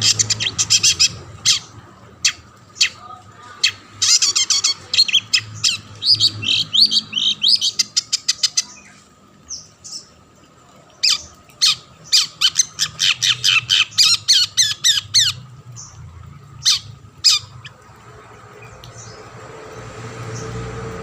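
Long-tailed shrike (cendet) giving harsh, rapid chattering calls: fast runs of scratchy notes broken by single sharp calls. The calling stops about three-quarters of the way through.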